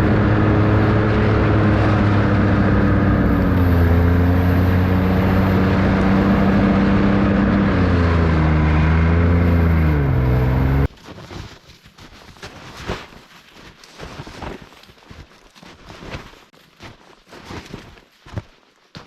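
A small engine running loud and steady, its pitch dropping in two steps and then wavering, cuts off abruptly about 11 seconds in. Irregular knocks and scrapes follow.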